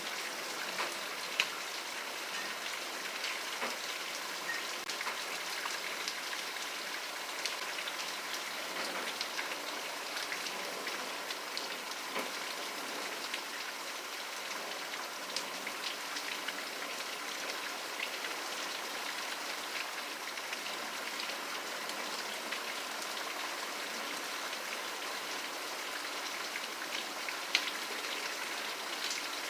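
Steady rain falling, with many individual drops ticking close by; two louder drops land, one about a second and a half in and one near the end.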